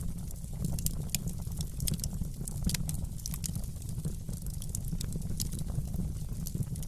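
Wood fire in a fireplace crackling, with scattered sharp pops and snaps at irregular intervals over a steady low rumble.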